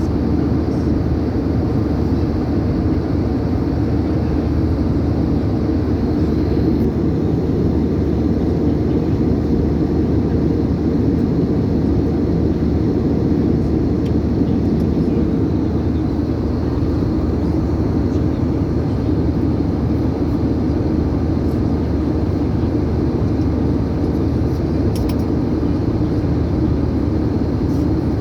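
Steady low drone of an airliner cabin, engine and air noise holding level without change.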